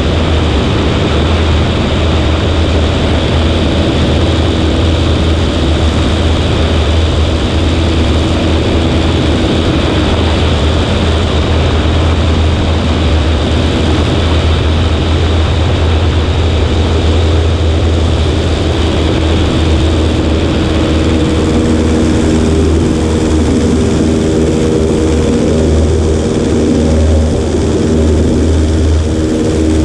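Cessna 140A's piston engine and propeller droning steadily in flight, with slipstream rushing over a microphone on the right wing. A few higher steady tones join the drone in the second half.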